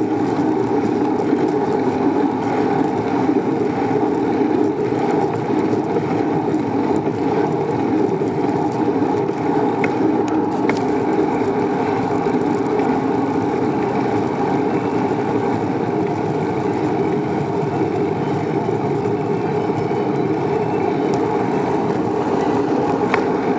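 Steady rushing wind and road noise from riding a bicycle, with a few faint clicks about ten seconds in and again near the end.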